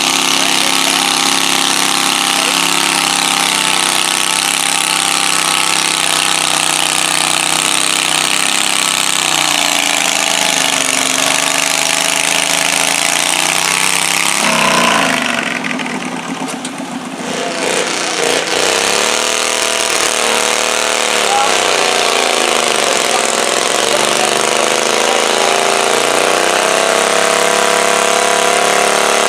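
Pulling garden tractor engine running loud and hard, its pitch steady at first, then sagging and recovering. About fifteen seconds in the sound drops away briefly, then the engine note slides down and climbs again several times.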